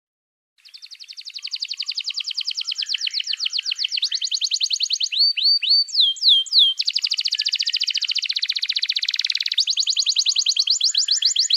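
Songbird singing rapid trills of fast-repeated notes, broken by short runs of downward-slurred notes, starting about half a second in.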